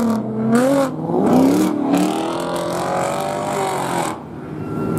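Loud custom car engine and exhaust revving and accelerating away, its pitch rising and falling several times over the first two seconds, then holding steadier until it drops off about four seconds in.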